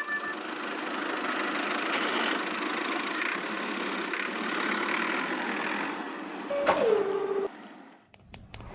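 A small motor running steadily with a noisy whir. Near the end a whine falls in pitch as it slows and stops, followed by a few faint clicks.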